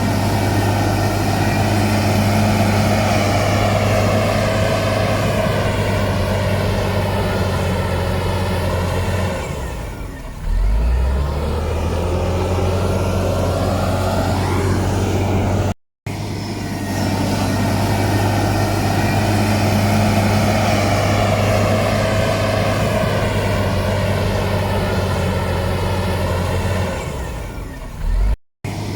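Heavy earthmoving machine's diesel engine running steadily under load. About ten seconds in its note drops, then climbs again in a rising whine. The sound cuts out briefly twice, about halfway through and near the end.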